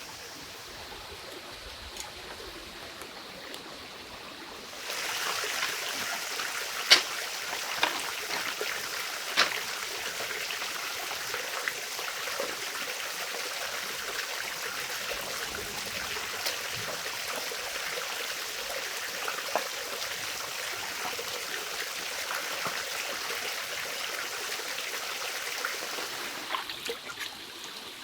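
Running water of a stream, a steady rushing with a few small splashes. It comes in suddenly about five seconds in and drops back near the end.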